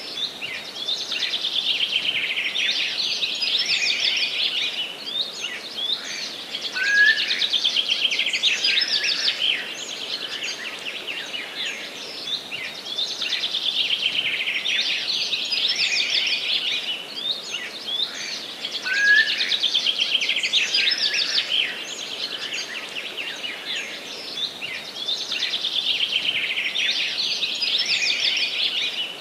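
A chorus of forest songbirds, with dense overlapping chirps and trills that swell and ease over a faint steady hiss. The same stretch of song comes round again about every twelve seconds, each time with one rising whistled note.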